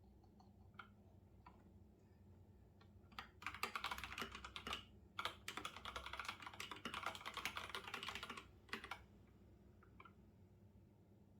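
Typing on a computer keyboard: a few scattered key taps, then about six seconds of rapid, continuous typing with a brief pause partway through, then a few more taps near the end.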